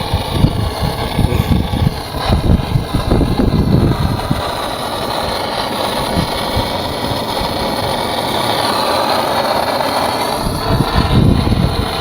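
Gas blowtorch flame burning steadily as it melts beeswax scraps onto wooden hive top bars, with uneven low rumbling in the first few seconds and again near the end.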